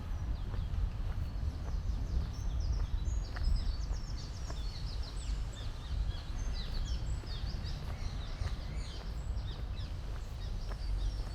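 Songbirds chirping and trilling in many short, high notes over a steady low rumble.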